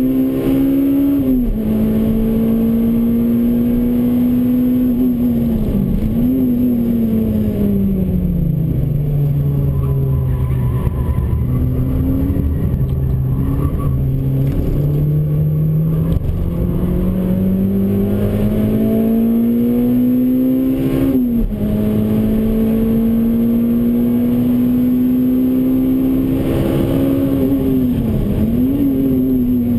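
Honda Civic Type R EP3's K20 2.0-litre four-cylinder engine heard inside the cabin at full track pace. It revs high and pulls hard, with a sharp drop in pitch at each upshift about a second in and again about two-thirds through. In the middle it eases to low revs for several seconds through a slow corner before climbing again.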